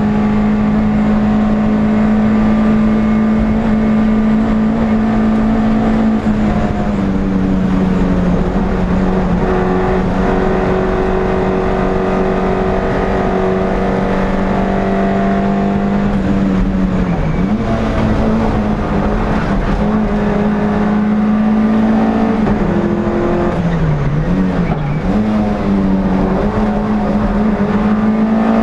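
NSU TT's air-cooled four-cylinder engine heard from inside the race car, held at high revs at full throttle with a steady low rumble of road and wind. About seventeen seconds in the engine note briefly drops as the driver lifts off, and again around twenty-four seconds, each time climbing back to full revs.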